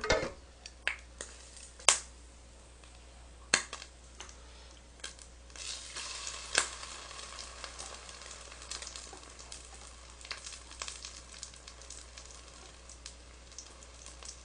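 Egg-battered mushroom slices sizzling in hot oil in an electric fryer pot; the sizzle swells about five seconds in. A few sharp clacks of chopsticks on the pot and steel bowl, the loudest about two seconds in.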